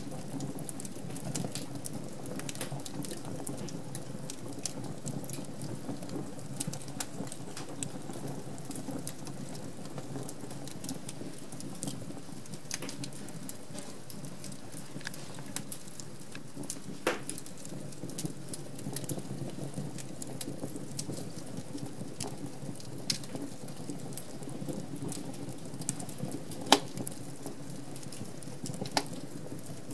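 Wood fire crackling in a fireplace: a steady low rush of flame with many small, irregular crackles and snaps, and one louder pop near the end.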